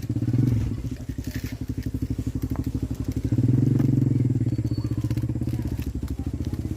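A small engine running with a rapid, even chugging that grows louder about three seconds in.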